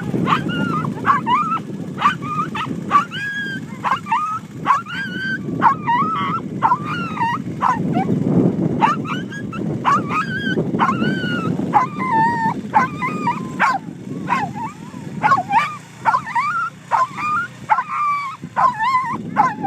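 A dog whining and yipping, short high calls repeating about one or two a second without a break, over a steady low rumble.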